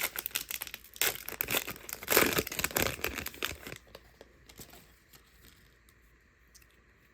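Crinkling and tearing of the plastic wrapping on a Donruss trading-card blaster box as it is ripped open. The noise is loudest for the first few seconds, then settles to faint handling clicks.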